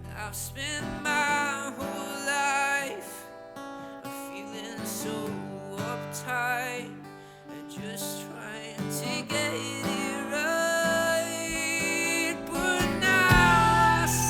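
Rock band playing an instrumental passage, with lead guitar playing bending, wavering notes over strummed rhythm guitar; the low end drops away for most of the passage and the full band comes back in near the end.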